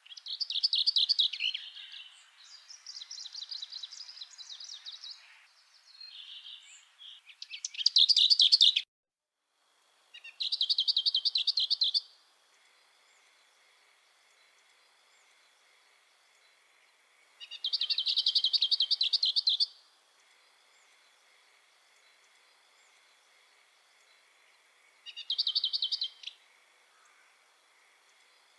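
A songbird singing short, rapid trilled phrases: several in quick succession at first, then single phrases spaced several seconds apart. A faint steady high tone runs underneath in the later part.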